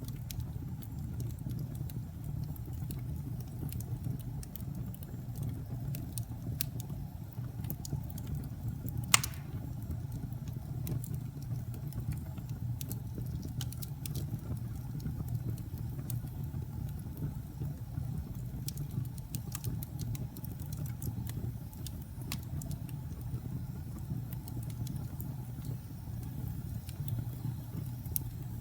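Fire burning in a fireplace: a steady low rumble of flames with scattered small crackles and one louder pop about nine seconds in.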